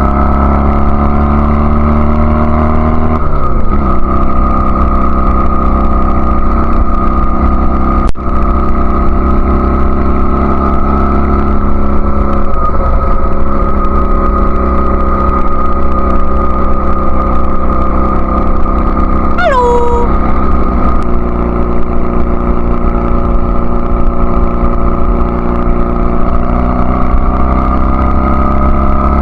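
1999 Honda Rebel CA125's 125cc parallel-twin engine running through a free-flowing BSM/Highway Hawk exhaust on the road. The revs drop about three seconds in, then hold steady. A brief falling whistle-like tone comes about two-thirds of the way through.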